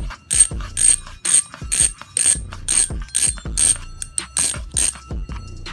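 Ragusa XM800 six-pawl bicycle hub freewheel ratcheting in short, even bursts of clicking, about two a second, stopping about five seconds in.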